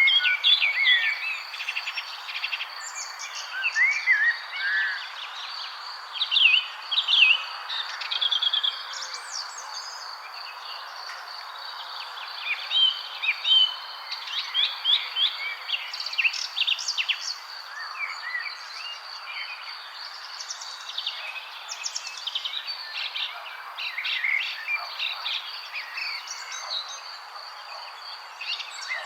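Several wild birds chirping and calling in quick, varied phrases of short whistled notes and sliding tweets. The calls come in clusters, busiest near the start and in the middle. A steady high-pitched tone and a soft background hush run underneath.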